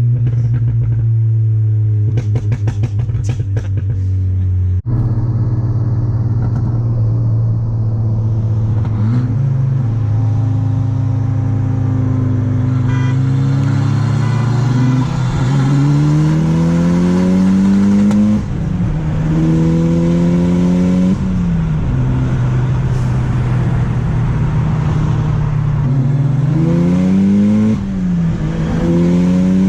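A turbocharged car engine is driven hard through the gears. Its pitch climbs steadily and drops sharply at each upshift, three times in the second half. About two to four seconds in there is a burst of rapid crackling pops.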